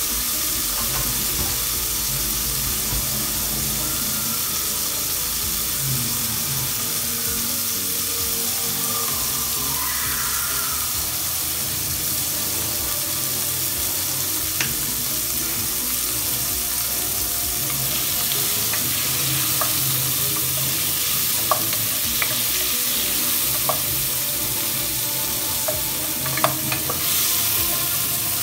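Chopped onions and vegetables sizzling in hot oil in a pot: a steady hiss with a few sharp pops in the second half.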